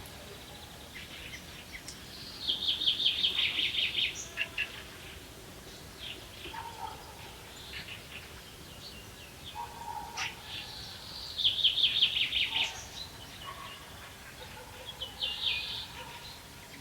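A songbird sings twice, each song a quick run of many short high notes lasting about a second and a half, the two songs about eight seconds apart. Fainter chirps from other birds come in between, over a steady quiet background hiss.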